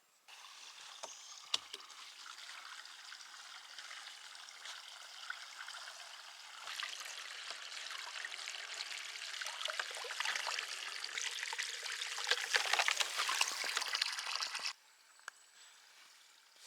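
Water running or pouring in a steady stream, growing louder about seven seconds in and stopping abruptly about fifteen seconds in.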